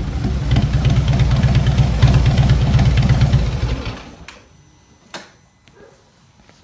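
2016 Harley-Davidson Street Glide's V-twin idling loudly with a fast, even lope through 32-inch straight slip-on pipes with no baffles, then shutting off about four seconds in. Two light clicks follow.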